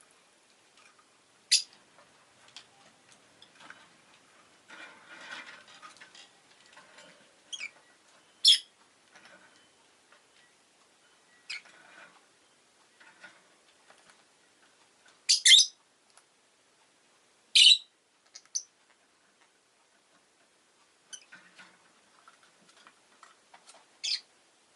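Rosy-faced lovebird giving short, sharp, high-pitched calls, about six of them spaced a few seconds apart. Softer clicking and rustling sounds fill the gaps between the calls.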